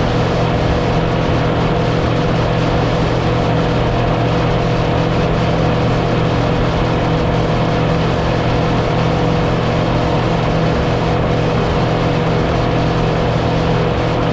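Motorboat engine running at a steady speed: a constant drone under an even rush of noise, unchanging throughout.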